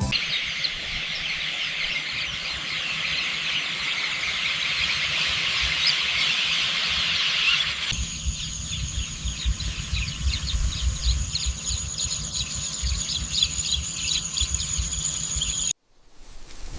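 Countryside ambience of birds chirping densely over insect noise, with a low wind rumble. About halfway through the sound changes to a steady high insect whine with scattered bird chirps, then it cuts out briefly near the end.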